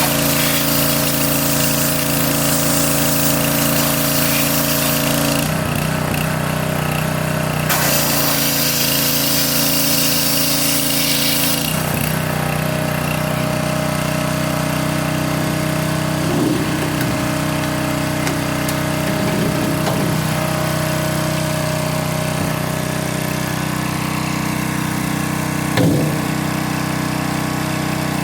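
A motorized machine running steadily with a constant hum. A loud hiss over it stops about five seconds in, comes back about two seconds later and fades out near the middle, and there are a few small knocks later on.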